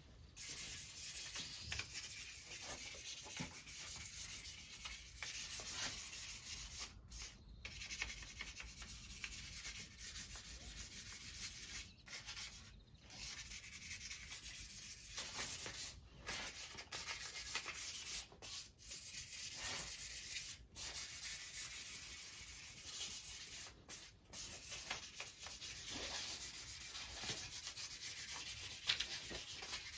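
Hand sanding on a motorcycle frame: abrasive paper rubbed back and forth in continuous scratchy strokes, broken by several brief pauses.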